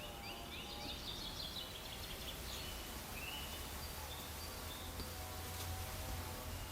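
Small birds chirping and singing, a quick run of short repeated chirps in the first few seconds and then scattered single chirps, over a steady low outdoor background hum.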